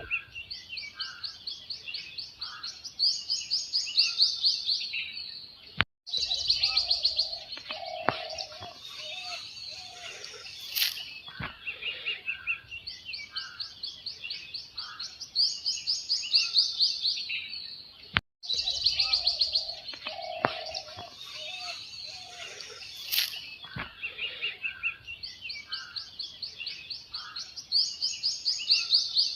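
Songbirds singing in a forest: fast, repeated chirping trills with a few lower calls among them. The birdsong cuts out briefly twice, and the same stretch repeats about every 12 seconds, as a looped recording does.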